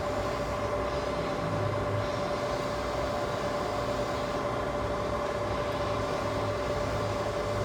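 Summit 16x60B engine lathe running with its spindle turning and the power cross feed engaged: a steady, even whine with a low hum underneath that swells and fades.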